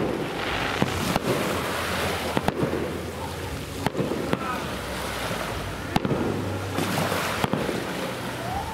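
Fireworks shells bursting with sharp bangs every second or two, irregularly spaced, over a steady rushing background noise.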